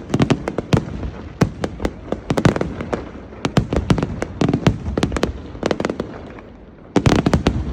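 Fireworks display: rapid, irregular salvos of sharp bangs and cracks. The bangs thin out briefly around six seconds in, then a fresh dense cluster of bangs breaks out near the end.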